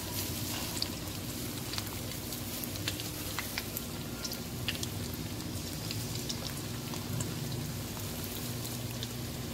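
Fish pieces coated in a besan spice paste shallow-frying in hot oil in a wok: a steady sizzle with scattered pops and crackles.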